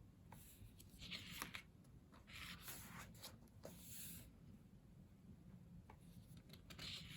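Pages of a photobook being turned and handled: a few faint, short paper rustles and slides, about a second apart in places.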